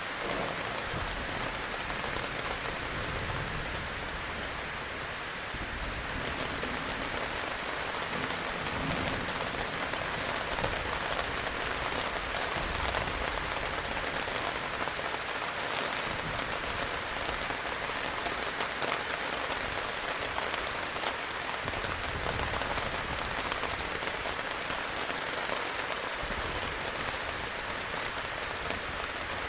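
Heavy rain falling steadily, a dense even hiss with the patter of individual drops striking a surface.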